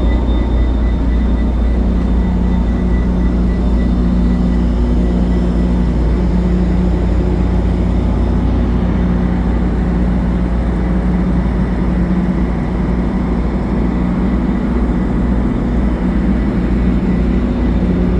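Stopped diesel commuter train idling at the platform: a steady, loud low rumble with a constant hum.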